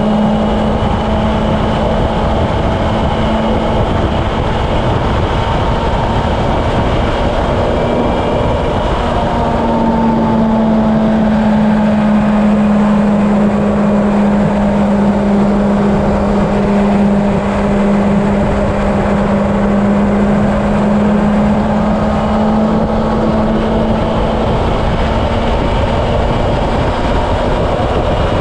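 Honda CB750 inline-four engine holding a steady cruising speed on the highway: a constant engine hum that shifts pitch slightly about nine seconds in, under heavy wind rush on the helmet or bike-mounted camera.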